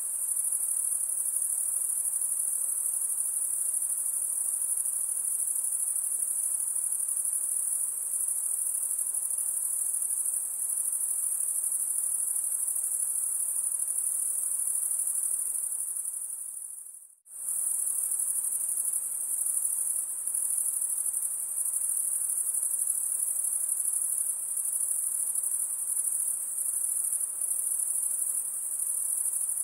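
A steady, high-pitched chorus of insects shrilling. About 17 seconds in it fades out to near silence for a moment and then comes straight back.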